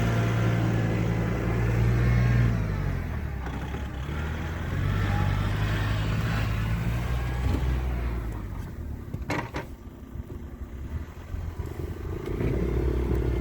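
An engine running, its pitch shifting up and down, then dropping away about eight seconds in, with a short sharp knock about nine seconds in, before it picks up again at a different pitch near the end.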